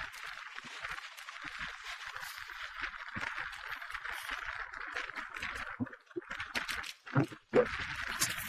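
Steady hiss of filtered-down wind on a microphone during a bicycle ride, with small rattles and clicks throughout and a couple of louder knocks near the end.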